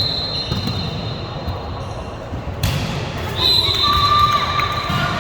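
Indoor volleyball game in a gym hall: echoing chatter from players and spectators, with a sharp hit of the ball about two and a half seconds in and high squeaks near the start and again past three seconds.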